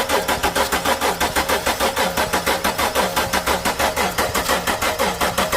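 Starter cranking a 2008 Dodge Charger's 3.5 L V6 with its spark plugs removed, for a compression test: an even chugging of about five pulses a second that does not catch and run.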